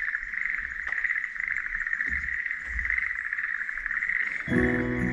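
Continuous chorus of calling animals, a dense high trilling that swells and fades every half second or so. Music with sustained notes comes in near the end.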